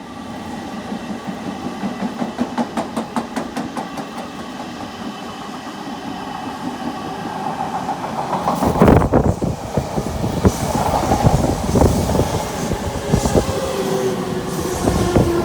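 Odakyu Line electric train running past, its wheels clicking over rail joints in a quick even rhythm, then a louder, heavier rumble from about eight seconds in with a steady whine.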